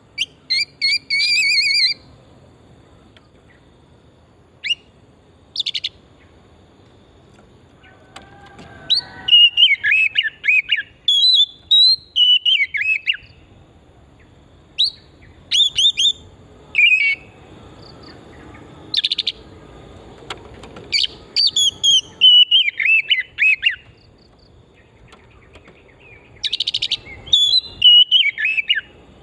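Oriental magpie-robin (kacer) singing loudly in separate bursts of varied whistled notes and fast warbling trills, with pauses of a second or more between phrases.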